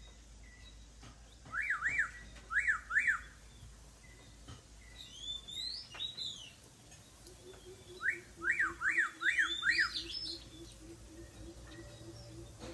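A bird calling: two bouts of about five quick, sharp up-and-down notes, about 1.5 s and 8 s in, with higher, curling whistled notes between and just after them.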